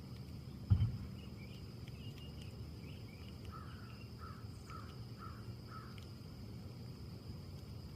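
Wind in trees as a steady low rumble under a continuous high insect trill, with a dull thump about a second in. Near the middle a bird gives five short calls in quick succession, with fainter chirps just before.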